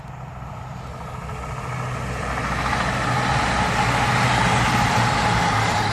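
CrossCountry Class 220 Voyager diesel multiple unit approaching on the line, its engine and wheel-on-rail noise growing steadily louder over a steady low hum.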